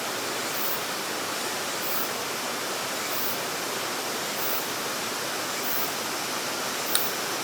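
Steady rushing of flowing river water, an even hiss with no change in level. A single short click sounds near the end.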